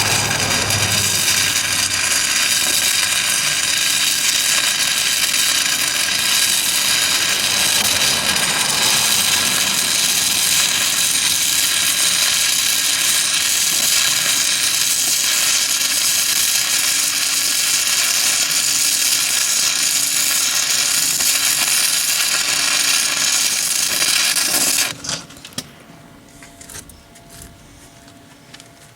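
Stick welding arc from a 6010 electrode on steel plate, powered by a Miller Syncrowave 210 on DC: a steady, loud hiss that stops abruptly about 25 seconds in when the arc is broken, leaving a low hum and a few faint clicks.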